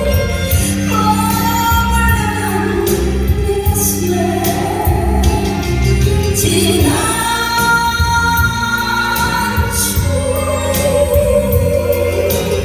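A woman singing a Korean ballad over a steady band accompaniment, holding long notes.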